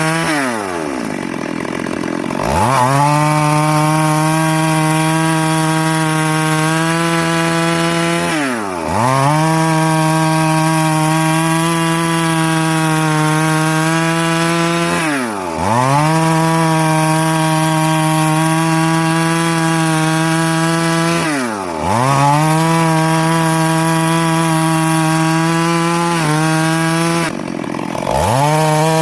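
Two-stroke chainsaw running at high speed as it cuts through wood, holding a steady pitch. Four times, about every six seconds, the engine speed drops sharply and quickly climbs back.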